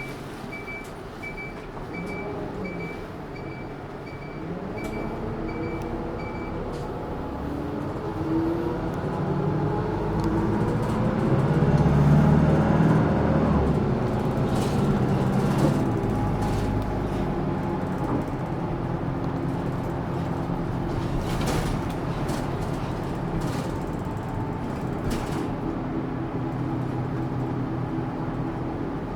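Isuzu Erga Mio non-step bus's diesel engine heard from inside the cabin, pulling away and accelerating, loudest about twelve seconds in, then cruising steadily with road noise. A regular electronic beep sounds about twice a second for the first six seconds or so.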